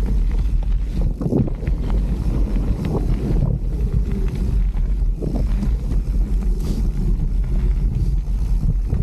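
A mountain bike ridden along a dirt trail: wind buffets the microphone over a steady rumble of tyres, with frequent knocks and rattles from the bike over rough ground.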